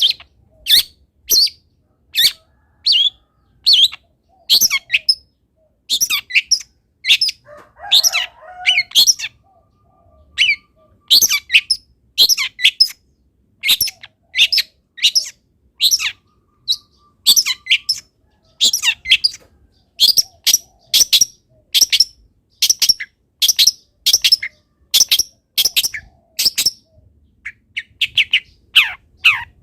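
Long-tailed shrike (cendet) calling loudly: a steady run of short, sharp, high chirps, about one and a half a second, some in quick pairs.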